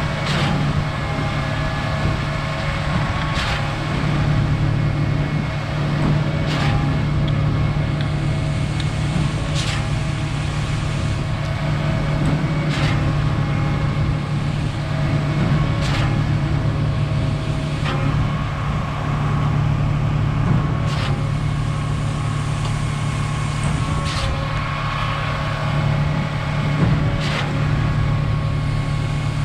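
Concord concrete pump truck running steadily at pumping revs, its engine droning, with a sharp clunk about every three seconds as the pump changes stroke.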